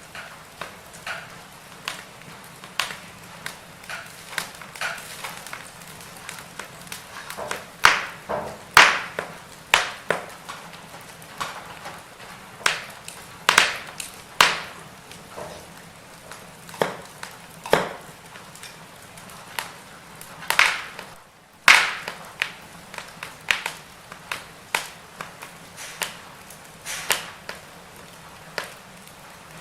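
Firewood burning and crackling: irregular sharp pops and snaps, some much louder than others, over a soft steady hiss.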